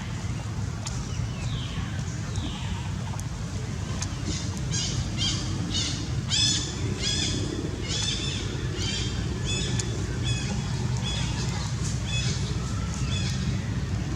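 High-pitched animal calls: a few falling cries early, then a run of short chirps about two a second, over a steady low rumble.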